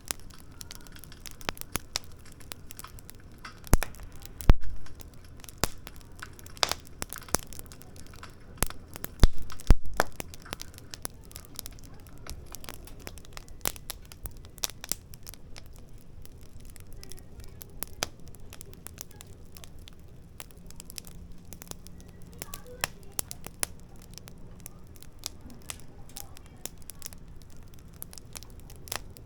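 Firewood burning in a fire pit, crackling with scattered sharp snaps and pops, a few of them louder about four seconds and nine to ten seconds in.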